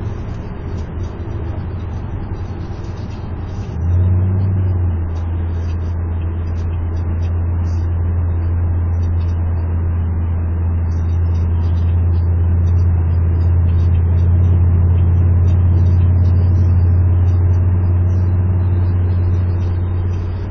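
Exhaust drone inside the cabin of a 2006 Pontiac Grand Prix GXP at highway cruise. Its 5.3-litre V8 runs with the catalytic converter and mufflers removed and only the factory resonator left. A steady low hum comes in strongly about four seconds in and slowly grows louder.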